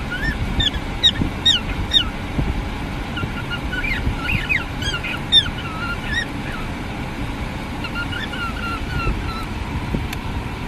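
A parrot calling in short runs of quick, falling chirps and whistles, over a steady low rumble.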